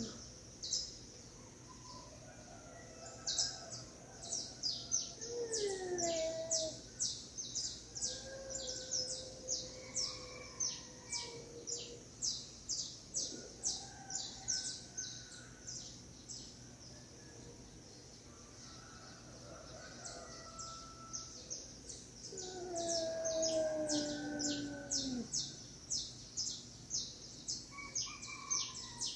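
Cats yowling in a fight: several drawn-out wails that slide down in pitch, the longest and loudest near the end, over a steady run of rapid high chirping.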